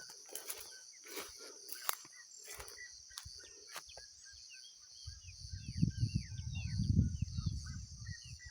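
Forest ambience: a steady high insect drone under a bird's rapid series of short chirps. Crackling steps sound over the first few seconds, and a loud low rumble comes in about five seconds in.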